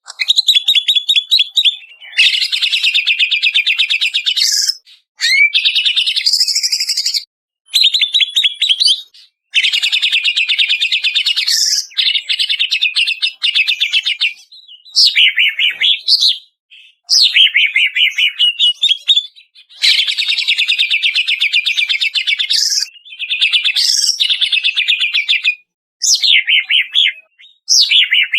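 Cucak ijo (green leafbird) singing loudly in long, rapid phrases of fast-repeated notes and sweeping whistles, broken by short pauses.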